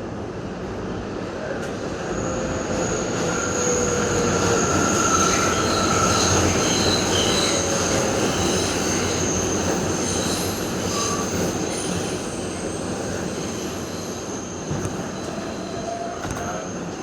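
Interior of an R142A subway car as the train slows into a station: steady rumble of the wheels and motors with several high, thin squeals from the steel wheels and brakes. It grows louder through the middle and eases toward the end.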